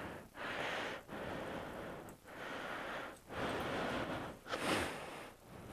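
A person breathing heavily close to the microphone: a run of breathy hisses, about one a second.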